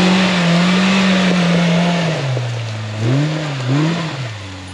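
Polaris RZR Pro R side-by-side's 2.0-litre four-cylinder engine driven hard at high revs, easing off about two seconds in, then two short blips of throttle before it settles lower, over a steady hiss.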